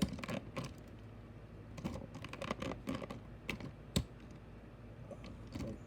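Irregular light clicks and taps of a small diecast toy car being handled and set in place, with one sharper click about four seconds in.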